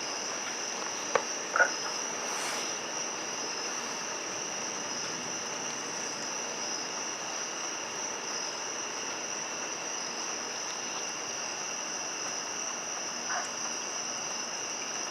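A steady chorus of insects chirring at two high pitches over a soft even hiss, with two brief clicks about a second and a half in.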